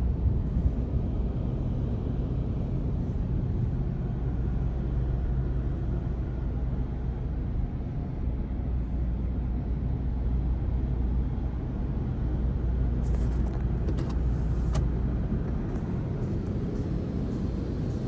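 Steady low rumble of a car and automated car-wash machinery, with a low hum throughout. A short run of sharp ticks comes about two-thirds of the way through.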